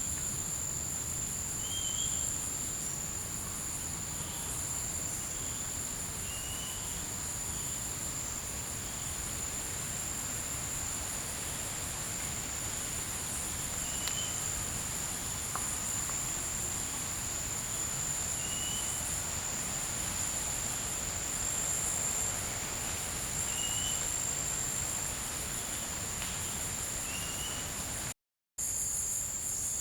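Forest insect chorus: a steady, shrill, high-pitched trill with a fine pulsing to it. A short faint chirp repeats every few seconds over it, and the sound cuts out for a moment near the end.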